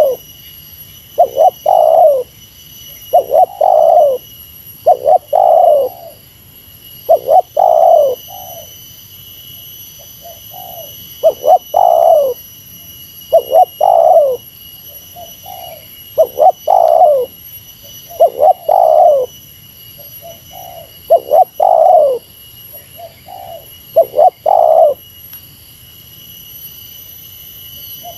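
Spotted dove cooing: a repeated phrase of one or two short notes and a longer falling coo, about every two seconds, stopping a few seconds before the end. A faint, steady high-pitched tone runs underneath.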